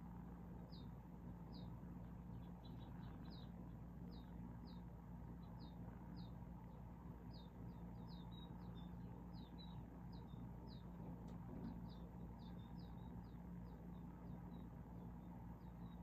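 Finches and sparrows cheeping: a run of short, high chirps, about two a second, some overlapping, over a faint steady low hum.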